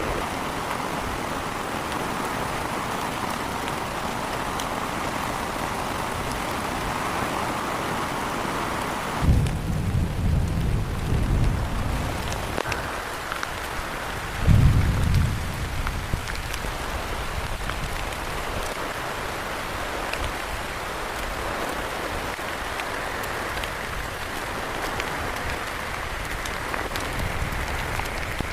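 Heavy rain falling steadily, with two short low rumbles about ten and fifteen seconds in.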